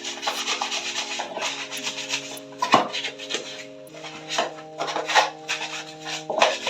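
Rapid scrubbing strokes on a soapy fridge part being washed, over background music of sustained chords.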